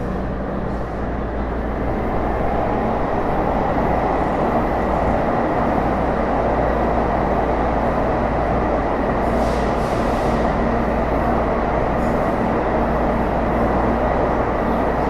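Running noise heard aboard a Taipei Metro C301 car, the Bombardier IGBT-VVVF-renovated version: a steady rumble of the car under way with a thin steady whine over it, growing somewhat louder over the first few seconds and then holding level.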